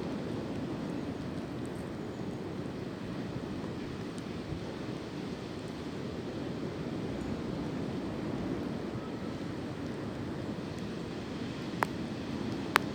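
Steady wind blowing through swaying tree branches, a continuous low rushing noise, with two sharp clicks close together near the end.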